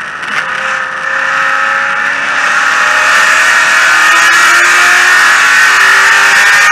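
Corvette race car's V8 engine heard from inside the cabin, running quieter for the first second, then back under power and accelerating, its pitch climbing steadily and the sound growing louder.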